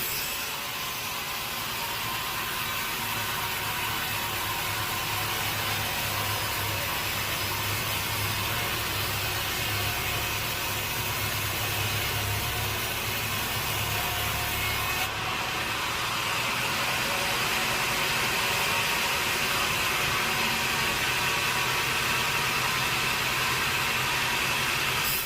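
Sawmill saw running and cutting through a teak log: a steady, loud, hissing whine of the blade in the wood. A low machine drone underneath stops about fifteen seconds in while the saw keeps running.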